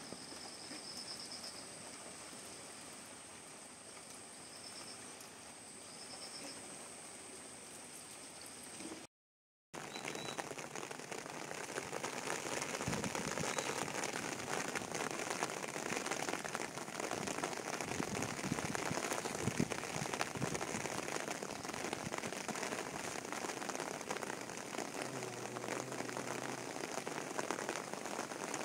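Heavy rain falling steadily on flooded ground and vegetation, an even dense hiss. For the first nine seconds the rain is lighter, with a steady high whine and a few short chirps over it. After a brief dropout about nine seconds in, the rain is louder and fuller.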